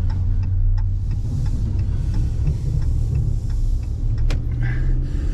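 Steady low rumble of a pickup truck being driven, heard inside the cab, with a few faint light ticks.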